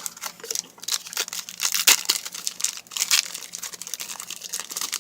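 Trading-card pack wrapper crinkling and tearing as it is opened by hand: a dense run of crackles.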